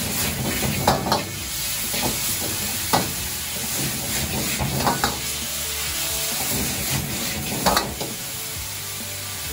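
Bean sprouts and garlic chives stir-frying in a wok over a high gas flame: a steady sizzle as the wok is tossed, with a metal ladle striking and scraping the wok several times, loudest about a second in and again near the end.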